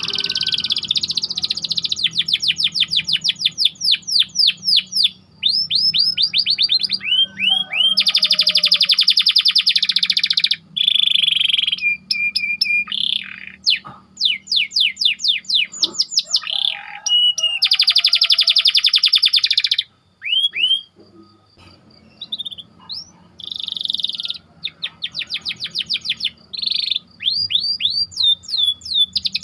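Domestic canary singing tight rolls: rapid trills of many repeated high notes, phrase after phrase with short breaks. There is a brief pause about two-thirds of the way through.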